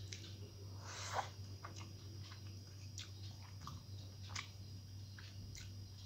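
Eating sounds: chewing with scattered small clicks, one louder about a second in, over a steady low hum.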